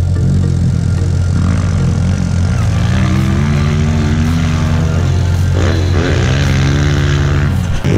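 Pit bike engine being ridden hard, its pitch climbing, falling back and climbing again as the throttle opens and closes.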